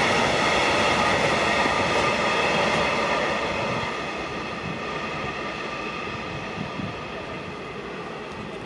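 A train running past, its rumble and a steady high-pitched whine slowly fading away as it moves off.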